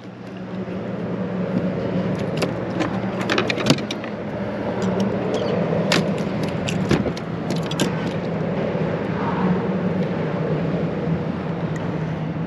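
Electric trolling motor on a fishing kayak humming steadily, with scattered clicks and taps from tackle being handled.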